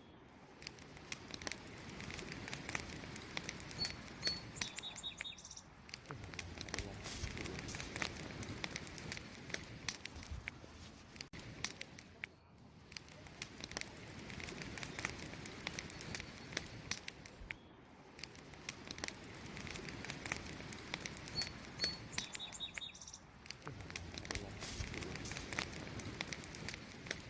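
Wood campfire crackling with many small sharp pops over a steady hiss. A small bird gives a few brief high chirps about four seconds in, and again the same way about twenty-one seconds in.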